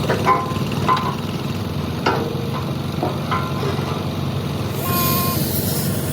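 An engine runs steadily under scattered metallic clinks and knocks; about five seconds in, a high hiss starts up over it.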